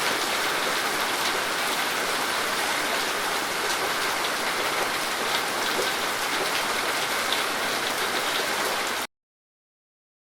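Steady rain falling, a dense even hiss with scattered individual drop ticks. It cuts off suddenly about nine seconds in, leaving dead silence.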